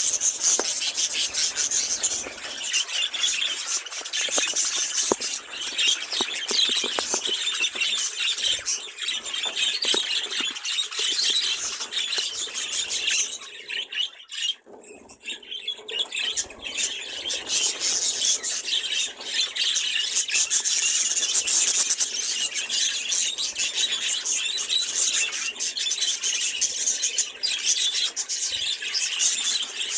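Pet budgerigars chattering and warbling continuously, many high chirps and squeaks overlapping, with a brief lull about halfway through.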